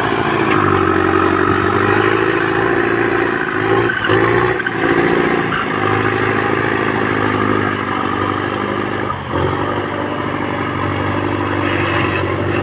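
Tractor engine running steadily under load, its pitch sagging briefly a few times as it works.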